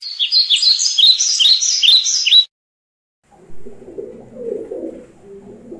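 A songbird chirps a quick series of high, down-sweeping notes that cuts off suddenly about two and a half seconds in. After a brief gap, a pigeon coos in low, throaty rolls.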